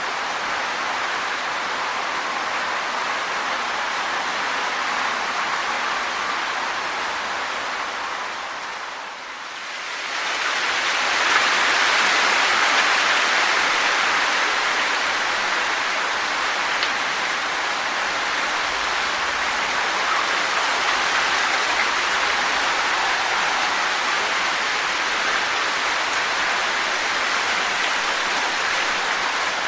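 Wind rustling through tree leaves in a steady hiss. It drops away briefly about nine seconds in, then returns as a stronger gust that eases off over the next few seconds.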